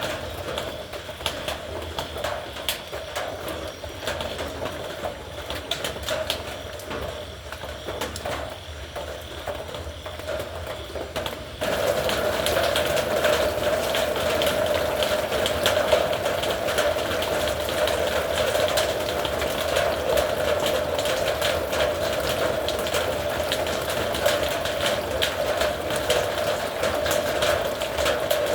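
Rain drumming on a metal roof: a dense, steady patter of drops striking the sheet metal. It turns suddenly louder and heavier about twelve seconds in.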